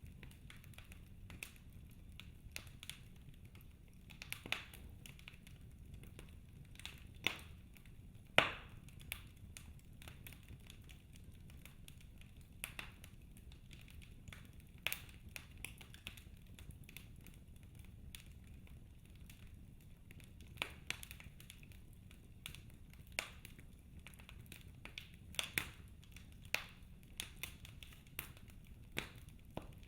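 Wood fire in a fireplace crackling: irregular sharp pops and snaps from the burning logs over a faint steady low hiss, with the loudest pops clustered about a third of the way in and again near the end.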